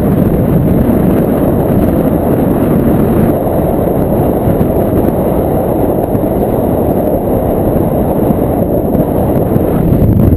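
Heavy wind buffeting a camera microphone in the airstream of paraglider flight: a loud, steady, low rumble with no distinct tones.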